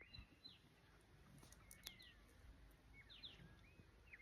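Faint birds chirping outdoors: short, high, sliding notes repeated here and there, with one soft click about two seconds in.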